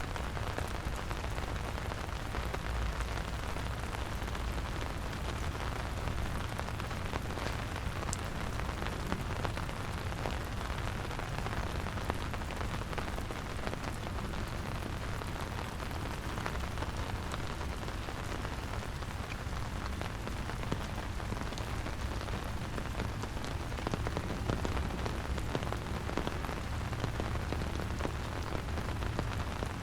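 Steady rain falling, with many small, close drop ticks over a constant low rumble.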